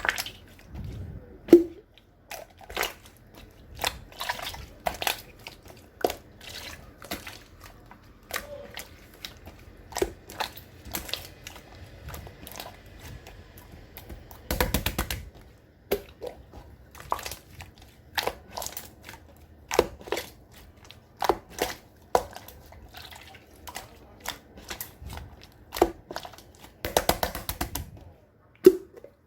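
Clear slime being squished and poked by hand, a string of sharp, wet clicks and pops at irregular intervals, with two short runs of fast crackling, one around the middle and one near the end.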